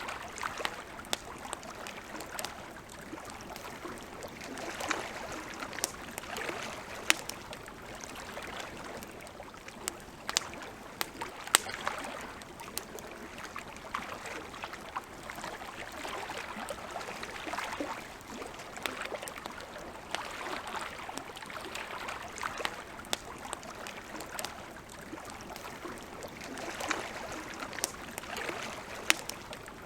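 Wood campfire crackling, with sharp pops scattered irregularly over a steady hiss; the loudest pops come a little before the middle and near the end.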